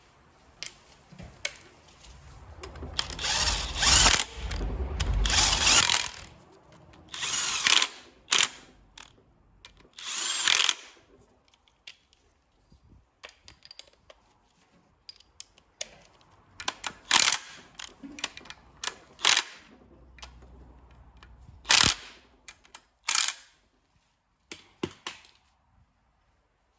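Repeated bursts of a tool driving bolts home while the Ford/PSA 1.6 TDCi diesel engine is reassembled after a timing-belt change. The longest, loudest run is a few seconds in, and shorter bursts follow with quiet gaps between.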